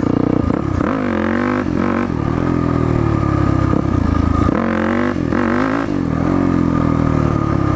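Yamaha WR450F dirt bike's single-cylinder four-stroke engine under throttle, its pitch rising and falling several times as the rider works the throttle, with stronger surges about a second in and again about five seconds in.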